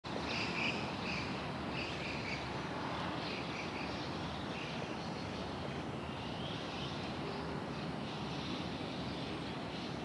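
Wild birds calling from the trees: a short call repeated about every half to three-quarters of a second for the first couple of seconds, then scattered calls. Under them runs a steady low background rumble.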